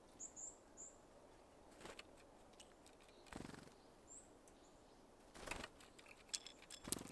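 Small birds at a seed feeder: a few short, high chirps near the start and again around four seconds in, and several brief fluttering bursts of wingbeats as birds come and go.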